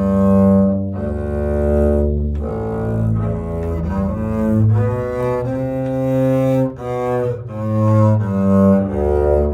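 Double bass played with the bow, slowly: a line of sustained notes changing about once a second, with string crossings from one note to the next.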